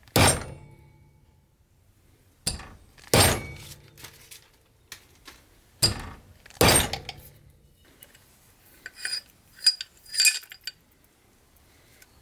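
Metal parts of a cast-iron bench vise knocking and clinking as they are handled: several sharp clunks spread over the first seven seconds, then a quick run of lighter, ringing clinks a few seconds later.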